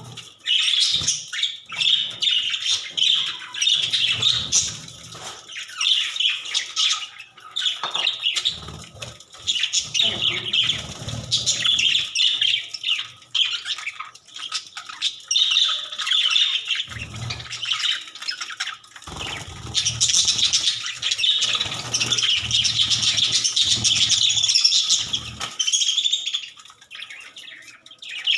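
Budgerigars chattering and chirping continuously, a dense warble of many quick high calls, with occasional low rumbles underneath.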